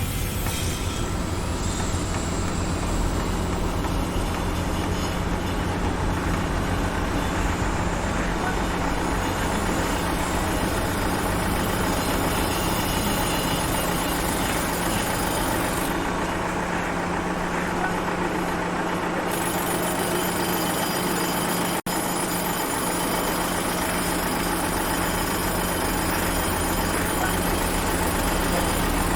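Heavy construction machinery running steadily: a truck or similar heavy-vehicle engine with a continuous low drone under dense mechanical noise. The sound breaks off for an instant about three quarters of the way through.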